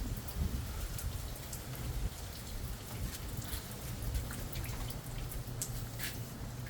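Rain falling, with many separate drops ticking and dripping onto a surface close to the microphone, over a low steady rumble.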